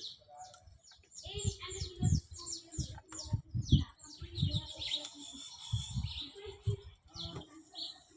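Small birds chirping over and over in quick falling notes, with a series of irregular dull knocks and handling clunks.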